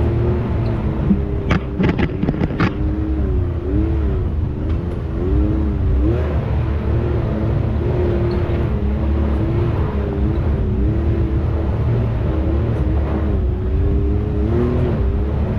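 Can-Am X3 side-by-side engine running at low speed, its pitch rising and falling as the throttle is worked over rough trail. A quick run of about five sharp knocks comes about two seconds in.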